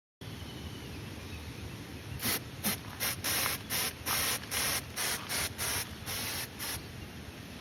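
A run of about a dozen short, spray-like hissing bursts, each well under half a second, over a steady background hiss.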